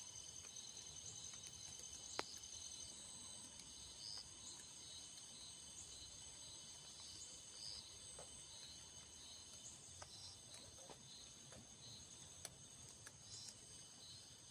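Insects chirring steadily at a high pitch, quietly, with a few faint clicks, one sharper about two seconds in.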